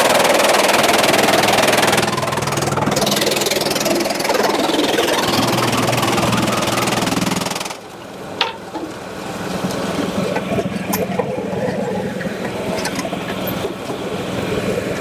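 Sawmill machinery running: a loud rushing noise over a steady engine hum, which drops away suddenly about halfway through. The engine keeps running afterwards, with a few light knocks.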